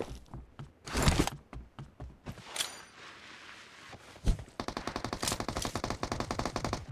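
Video-game gunfire: a loud shot about a second in and scattered clicks. From about two-thirds through comes a long, steady burst of rapid automatic fire.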